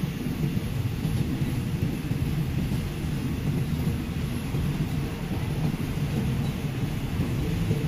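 Steady low rumble of a moving passenger train, heard from an open carriage window.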